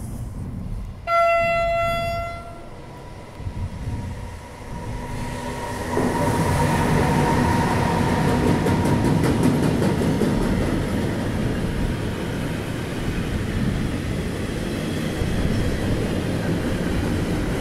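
An electric locomotive sounds one horn blast about a second in, a single held note lasting about a second and a half. From about six seconds in, the freight train of car-carrier wagons passes slowly and close by: a steady rumble of wheels on the rails, with a regular clicking from the wheels in the later part.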